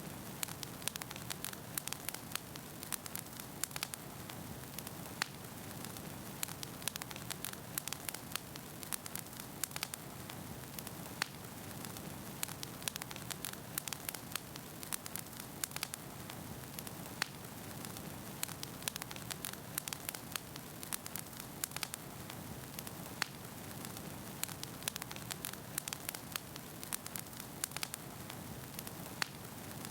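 Wood fire burning in a fireplace, with a steady low rush of flame and frequent irregular sharp crackles and pops from the logs.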